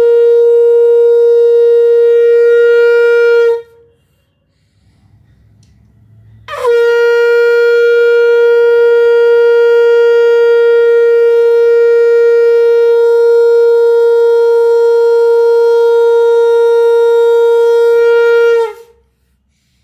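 Conch shell (shankh) blown in long, steady single-note blasts. One blast ends a few seconds in. After a short pause the next one starts with a quick scoop up in pitch, is held steady for about twelve seconds, then cuts off.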